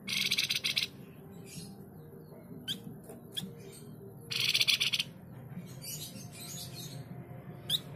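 Flamboyan cage bird giving harsh, rapid rattling chatter in two loud bursts of under a second each. Between them come scattered short chips, quick downward-sliding notes and softer chattering.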